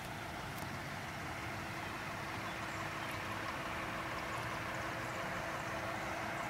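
Engines of parked emergency vehicles idling steadily, with a constant droning hum.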